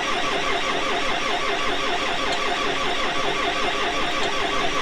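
Cold tractor diesel engine being turned over by its starter motor with a steady, rhythmic cranking that does not catch: a hard winter start with air in the fuel system.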